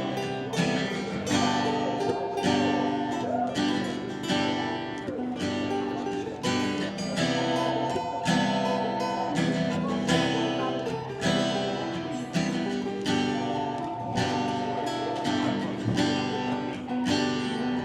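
Band playing an instrumental passage of a slow song, with guitar strumming on a steady, even beat and held melody notes over it.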